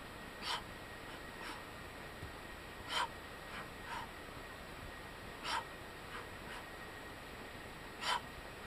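A person breathing out in short, sharp puffs while exercising, about eight irregular breaths, the strongest about three, five and a half and eight seconds in, over a steady low hiss.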